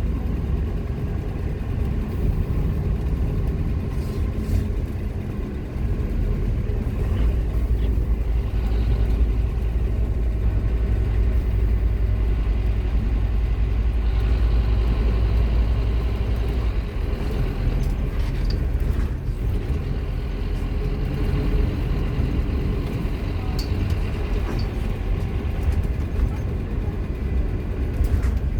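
Scania K230UB Omnilink bus's five-cylinder diesel engine running under way, heard from on board as a steady, deep drone with a few short rattles and knocks. The deepest part of the rumble drops away a little past halfway through.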